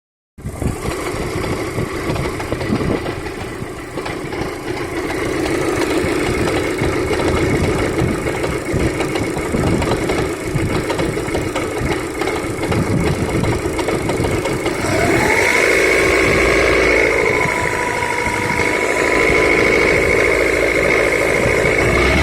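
Daewoo Lanos engine running with a persistent knock in its sound, on an engine with about 190,000 km; the owner is asking what is causing it. About two-thirds of the way through, the engine note shifts and a steady high whine comes in.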